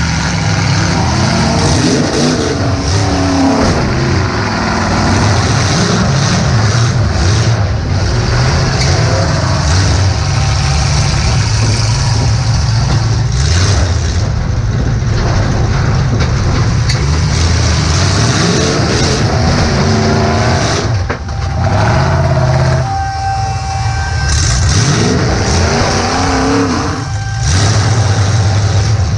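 Demolition derby car's engine heard from inside the car, revving up and dropping back again and again, with occasional sharp bangs mixed in.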